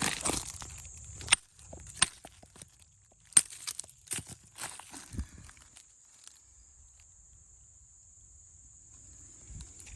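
Chert stones knocking together in a few sharp, separate clicks over the first five seconds or so, as a piece is handled and tested; after that it goes quiet, with a faint steady high-pitched whine underneath.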